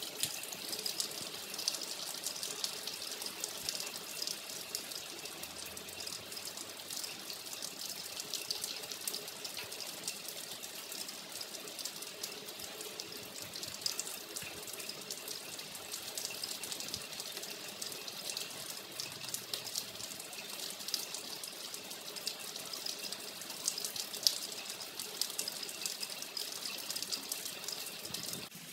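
Heavy rain falling on a wet concrete path and its puddles: a steady hiss dotted with countless small drop splashes.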